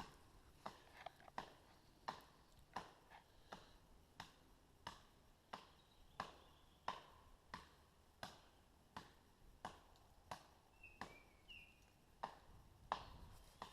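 Firewood being chopped: faint, evenly paced chopping blows on wood, a little more than one a second, one after another.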